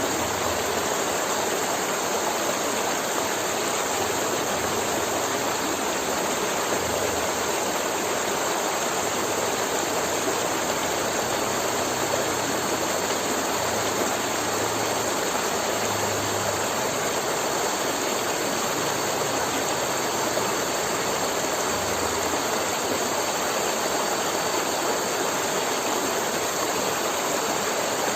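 River water flowing and rushing steadily over rocks, an even, unbroken rushing.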